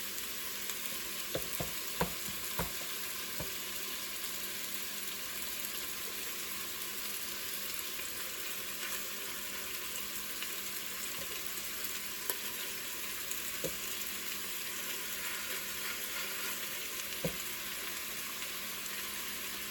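Meatballs sizzling steadily as they brown in hot oil in a pot, with a few light knocks now and then, several in the first few seconds.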